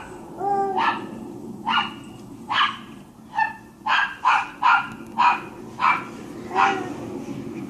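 Dog barking at birds: about ten sharp barks, coming faster in the middle.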